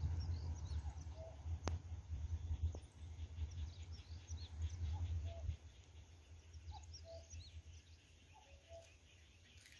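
Birds chirping and calling in the countryside: many short high chirps, and a lower two-note call repeated several times. Under them a low rumble fades out about halfway through.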